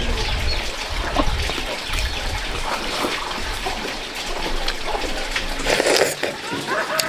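Water splashing and trickling, with scattered small knocks.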